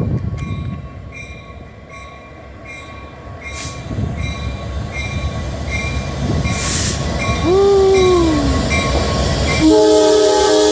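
Norfolk Southern diesel freight locomotive approaching, its bell ringing about twice a second over a rumble that grows louder. A little before the end its horn starts a steady multi-note blast, the loudest sound.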